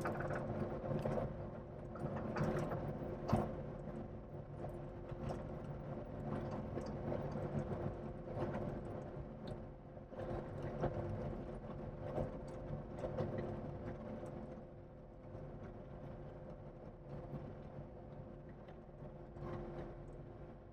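Vehicle engine running steadily at low speed, with scattered knocks and rattles.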